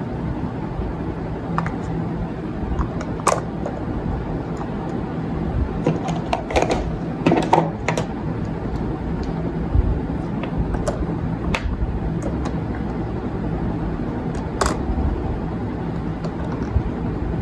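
Scattered clicks and knocks of objects being handled, a cluster of them around the middle, over a steady low rumble of background noise.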